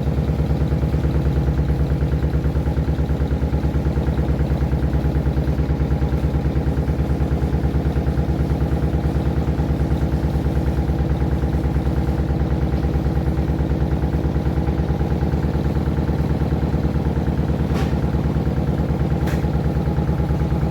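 Washing machine vibrating violently, a loud steady mechanical drone that pulses rapidly and evenly as the machine wobbles. A couple of faint clicks come near the end.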